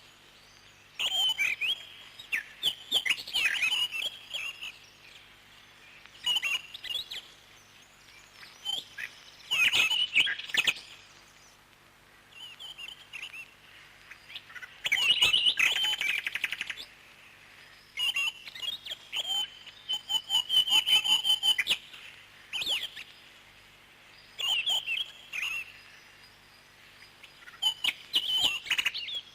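Parrots chirping: quick, high chirps in bouts of a second or two with short pauses between them.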